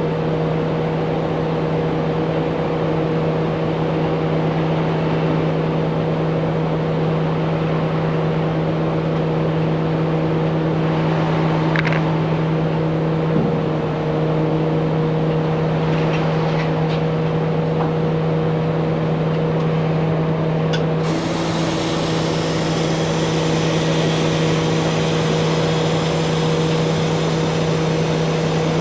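Large truck engine idling steadily at a constant pitch, with a few faint clicks over it.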